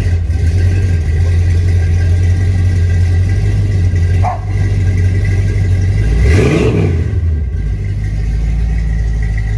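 1978 Ford F350's engine idling loudly just after starting, with one quick rev up and back down about six seconds in.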